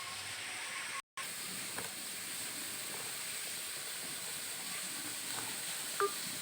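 Steady hiss, with a short break about a second in and a faint click near the end.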